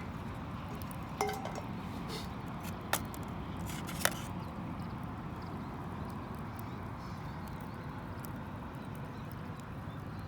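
Campfire cooking ambience: a steady low rush with a few sharp clicks, the first, about a second in, carrying a brief metallic ring.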